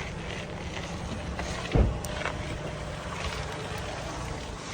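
Bicycle ridden fast over concrete: a steady low rumble of tyres and wind on the microphone, with one sharp thump a little under two seconds in.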